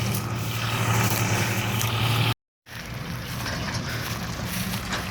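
Combine harvester engine running steadily with a low hum. The sound cuts out completely for a moment a little past halfway, then resumes unchanged.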